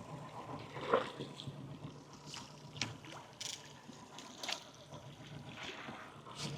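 Small boat drifting on calm sea: faint water sounds against the hull under a low steady hum, with scattered light clicks and knocks about once a second.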